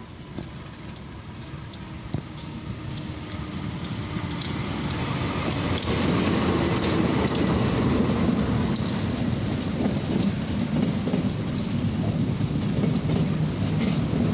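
Passenger train coaches passing on the track, with a rumble of wheels on the rails and scattered sharp clicks. It grows louder over the first six seconds or so, then holds steady.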